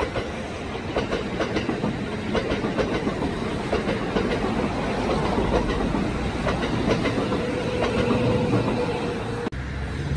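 Kintetsu limited express electric train passing, its wheels clicking rhythmically over the rail joints. A steady tone joins in over the last few seconds, and the sound cuts off abruptly near the end.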